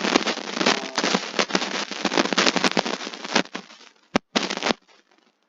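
Fireworks going off in a dense run of rapid crackling reports that thins out after about three and a half seconds. Two sharp bangs follow near the end. The sound is thin, lacking its deep low end, as from a video soundtrack.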